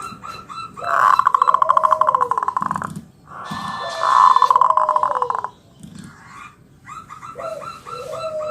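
Zebra dove (perkutut) singing: three phrases of quick, stuttering cooing notes over a lower sliding coo, the first two loud, the last softer near the end.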